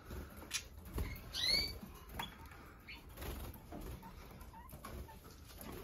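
Caged canaries giving a few short chirps, the clearest about a second and a half in, with light scattered clicks and patter from the birds moving about the cages.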